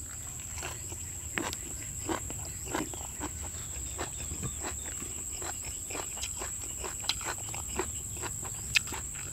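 Close-up chewing of a mouthful of fresh greens: irregular wet mouth clicks and crunches, a few a second, with a few sharper clicks near the end.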